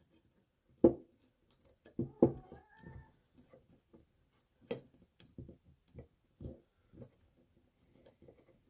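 Scattered light clicks and taps of hands handling a rubber gasket and thermostat housing as the gasket is stretched on, with a brief faint squeak about two and a half seconds in.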